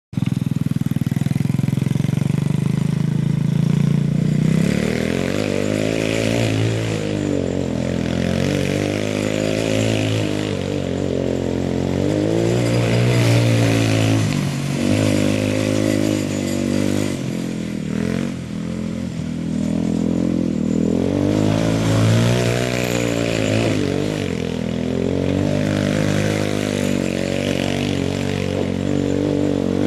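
Yerfdog Spiderbox buggy's engine running, steady for the first few seconds, then revving up and dropping back again and again as it is driven.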